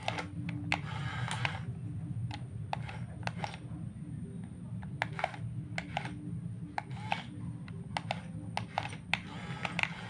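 Radio-controlled model construction machines at work: a steady low hum of their electric motors, with irregular clicks and rattles throughout.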